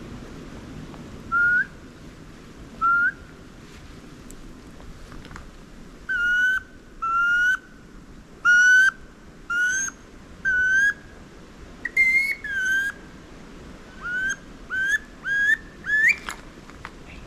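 Wood duck squeal calls: about fourteen short, rising whistled 'oo-eek' notes. Two come spaced apart, then a quicker run follows from about six seconds in, the last one sweeping higher.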